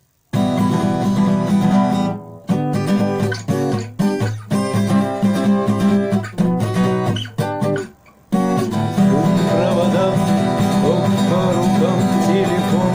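Acoustic guitar intro: chords strummed in short bursts with brief pauses between, then from about eight seconds in a steady strummed accompaniment with a melody played over it.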